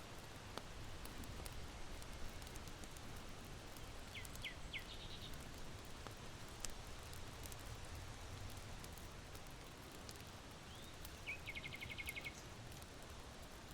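Charcoal fire in an irori hearth crackling faintly with scattered sharp pops, over a steady hiss of wind in bamboo. Small birds call: three quick descending chirps about four seconds in, and a rapid trill near the end.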